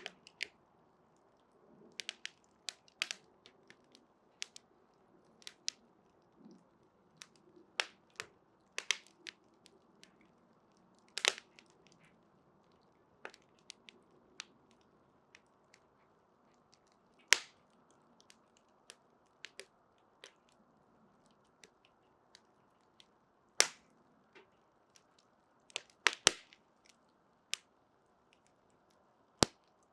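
Burning wood crackling: irregular sharp pops and snaps, a few of them much louder, over a faint steady hiss of flame.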